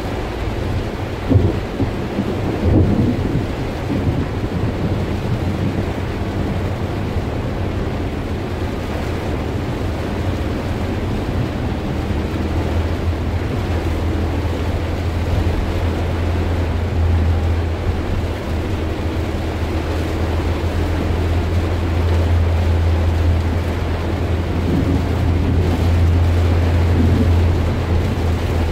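Heavy rain pelting the roof and windscreen of a moving car, heard from inside the cabin. A steady low rumble grows stronger about halfway through and stays to the end.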